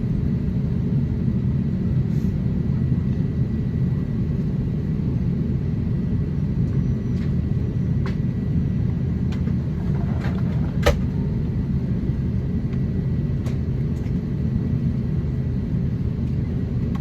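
Steady low rumble inside the cabin of an Airbus A350-900 on the ground, its Rolls-Royce Trent XWB engines at low thrust, with one sharp click about eleven seconds in.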